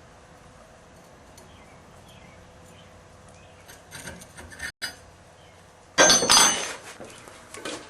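A few light metal clinks, then about six seconds in a loud, sharp metal-on-metal clang with a high ringing that fades over about a second, from blacksmithing tools and stock at the anvil.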